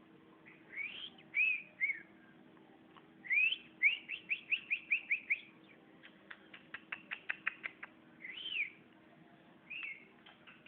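Sooty-headed bulbul (kutilang) calling: short rising and arching whistled notes, with a fast run of about eight rising notes around four to five seconds in. This is followed by a quick series of sharp clicks, then a couple more single notes near the end.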